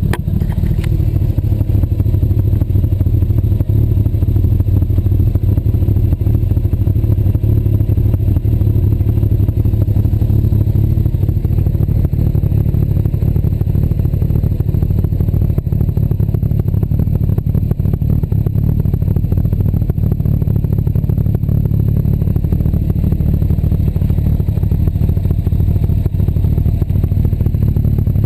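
Honda CBR1100XX's inline-four engine idling through its exhaust. The revs ease down over the first several seconds and then settle into a steady low idle.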